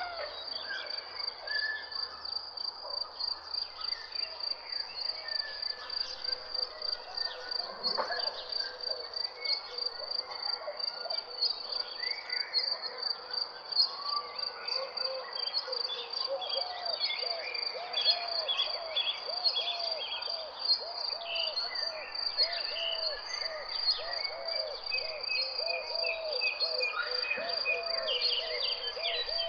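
Outdoor nature chorus: a steady, high, rapidly pulsing insect trill runs throughout, with many birds chirping over it. From about halfway through, a low call repeats over and over, roughly one to two notes a second.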